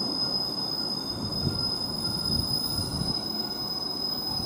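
Class 156 diesel multiple unit running into the station: a steady rumble of wheels on rail, with a thin high squeal held above it.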